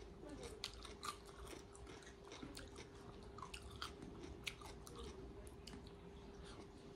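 Close-miked chewing and eating by hand from a tray of fried chicken, rice and cucumber: many short, irregular mouth clicks and crunches, over a faint steady hum.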